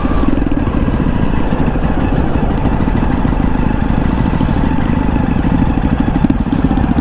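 Jawa motorcycle engine running steadily under way, a fast even pulse of firing strokes.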